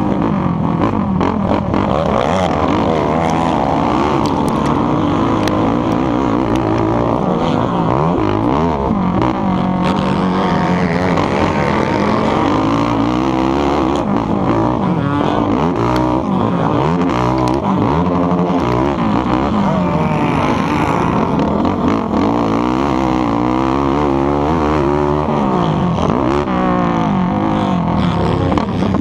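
ATV engine racing close to the microphone, revving up and down over and over as the throttle is opened and closed.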